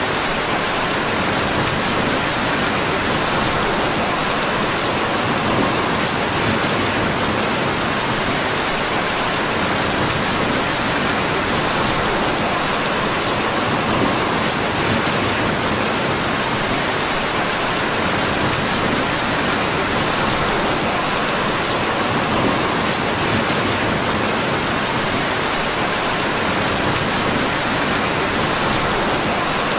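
Steady rain falling, an even hiss, with occasional faint sharp ticks.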